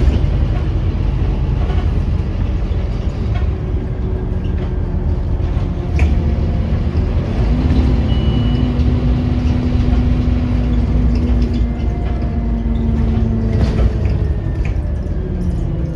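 Scania Omnicity single-deck bus heard from on board while driving: a steady low engine and road rumble, with a drivetrain whine that holds steady through the middle and slides down near the end, and an occasional knock or rattle.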